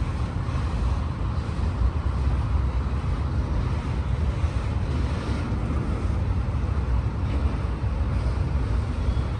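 Freight train of auto-rack cars rolling past, a steady rumble of steel wheels on rail, with some wind on the microphone.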